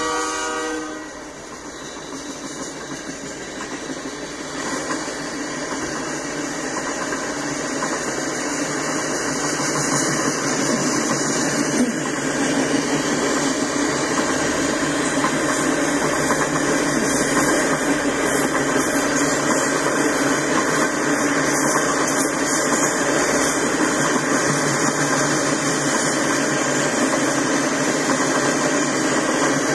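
A locomotive horn cuts off about a second in. Then comes the rolling noise of a freight train of tank cars passing on steel rails, growing louder over the first ten seconds and then holding steady.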